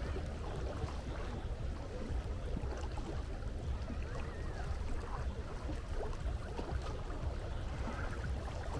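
Seaside water ambience: a steady wash of sea water with a deep, even rumble underneath.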